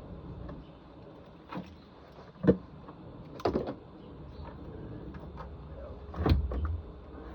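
A few sharp knocks and clunks of parts being handled and set in place, the loudest a heavier thud with a short rumble a little after six seconds in.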